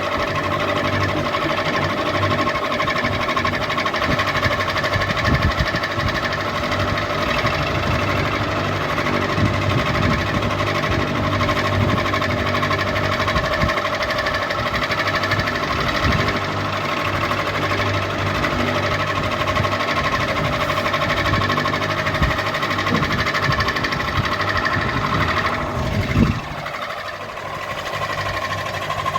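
Ceiling fan running: a steady motor hum with an irregular low rattling knock. A louder thump comes about 26 s in, after which the low rattle drops away for a moment.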